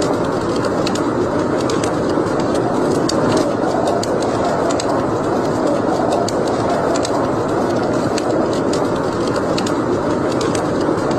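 Wood fire burning in a fireplace: a steady rushing with frequent sharp crackles and pops at irregular intervals.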